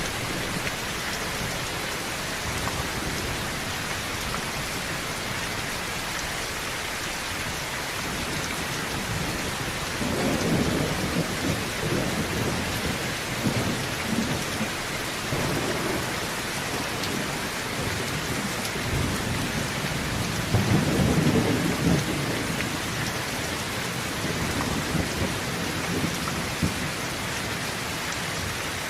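Heavy rain drumming steadily on a tin roof, with thunder rumbling about ten seconds in and again, louder, about twenty seconds in.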